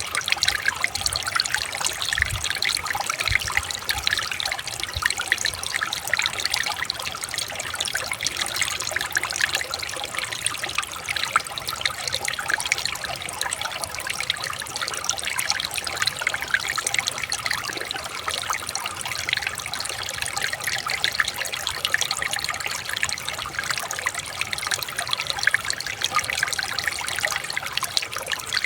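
Water trickling and babbling over stones in a small stream or river, a steady bright splashing with no letup.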